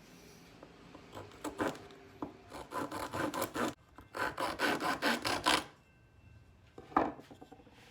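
Half-round hand file rasping across the end of a wooden frame bar cut from a 2x4. It goes in two runs of quick back-and-forth strokes, then a single sharp knock near the end.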